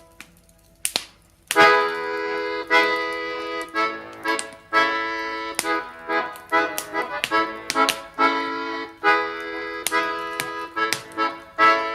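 Accordion music in a folk style: after a quiet opening of a few plucked notes, full accordion chords come in loudly about a second and a half in and play on in a lilting rhythm.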